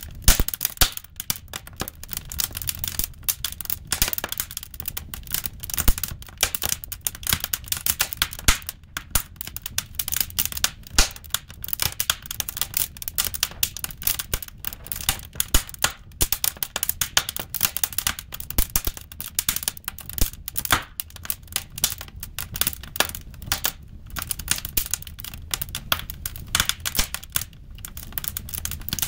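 Seasoned firewood burning in a fireplace, crackling and popping in irregular sharp snaps over a low rumble.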